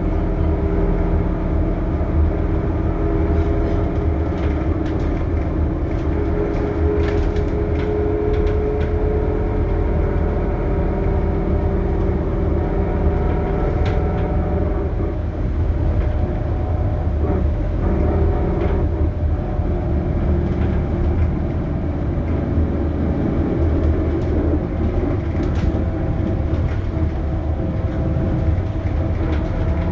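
Scania K280UB city bus with ZF Ecomat automatic gearbox running and driving: a steady low engine rumble with several whining tones that drift in pitch, and scattered light rattles.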